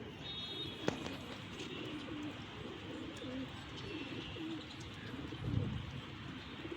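Domestic pigeons cooing over and over, with a sharp click about a second in and a dull thump about five and a half seconds in.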